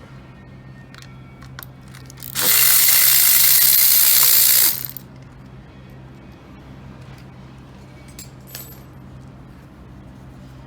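Compressed air hissing loudly for about two seconds with a steady whine, from a pneumatic tool or air gun in an engine workshop, starting and stopping abruptly. Light metallic clicks and clinks of tools come before and after it.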